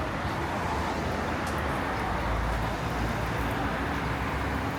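City street traffic: a steady wash of road noise, with a low rumble swelling about two seconds in as a vehicle passes.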